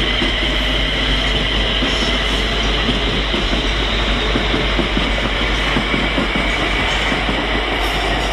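Eight-car Class 350 electric multiple unit pulling out, its wheels clicking over the rail joints, with a steady high whine.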